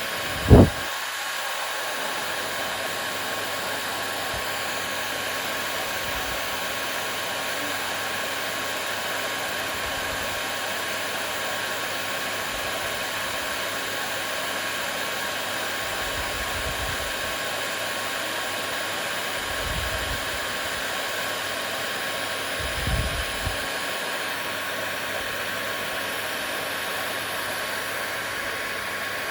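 Hair dryer running steadily: an even rushing blow with a constant hum in it. There is a sharp low thump about half a second in and a few soft low bumps later on.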